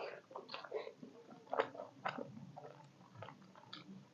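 Close-miked chewing of a steamed beef momo dumpling, with irregular wet mouth clicks and smacks.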